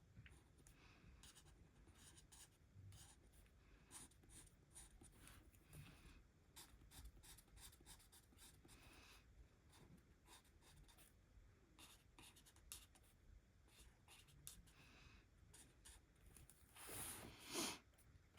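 Faint, quick strokes of a marker's bullet tip scratching over cardstock as leaves are coloured in, with a louder brush or rustle near the end.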